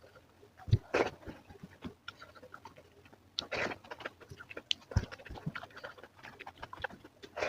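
Close-miked eating: chewing with irregular wet mouth clicks and smacks, a few of them louder.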